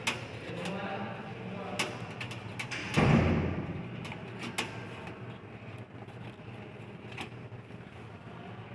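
Scattered clicks and knocks of parts and cables being handled inside a desktop computer case, with one louder scraping clatter about three seconds in. A steady low hum runs underneath.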